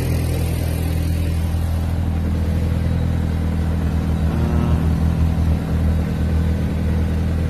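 Audi S3 8L's 1.8-litre turbocharged four-cylinder (BAM) idling through an aftermarket Milltek exhaust, a steady low rumble that wavers slightly a little past the middle.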